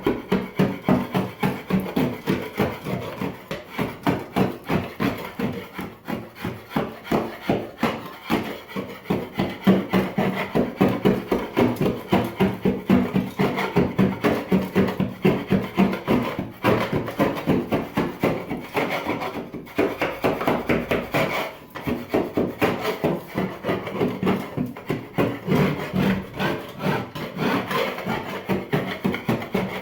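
Hand paint scraper scraping paint off a surface in quick, repeated strokes, about three a second, keeping a steady rhythm throughout.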